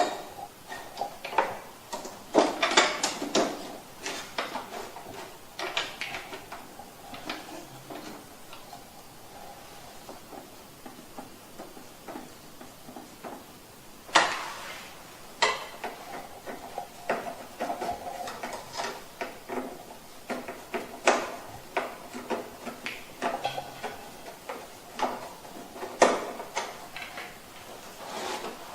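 Plastic casing parts of a wall-mounted air conditioner's indoor unit being handled and fitted: irregular clicks, knocks and rattles of plastic, with a few louder knocks.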